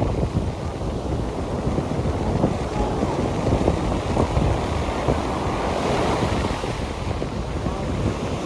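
Wind buffeting the microphone in a steady low rumble, over a rush of water.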